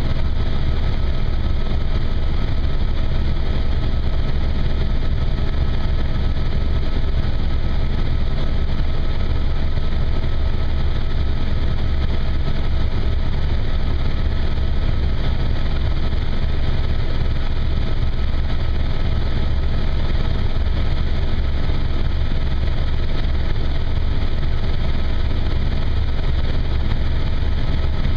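Helicopter in flight, heard from inside the cabin: a steady, loud engine and rotor noise with a few faint, steady whining tones above it.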